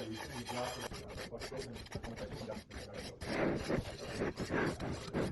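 Pizza dough being stretched and worked by hand, making repeated rubbing and scraping strokes that come faster and louder in the second half, a few a second.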